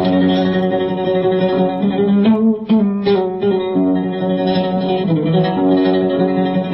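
Instrumental passage of Egyptian classical Arabic song on the oud, playing a melody of held and repeated plucked notes with no voice.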